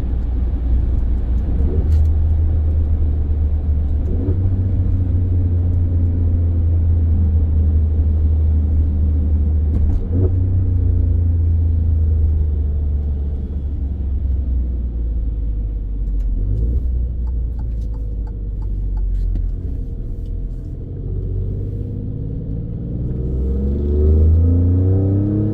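Alfa Romeo Stelvio Quadrifoglio's twin-turbo V6 running under way with a steady low drone. Near the end the engine note climbs as the car accelerates.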